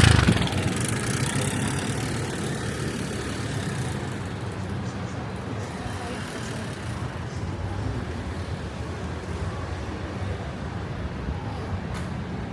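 Street traffic: a motor vehicle passes close by at the start and fades away over about two seconds, leaving a steady low rumble of traffic.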